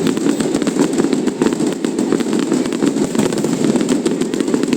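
Fireworks display going off: a dense, continuous run of rapid bangs and crackles over a steady low rumble.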